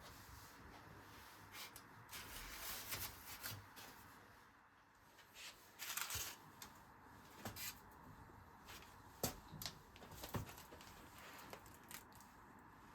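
Faint rustling and crinkling with a few light clicks and knocks, the sound of hands handling things in a kitchen.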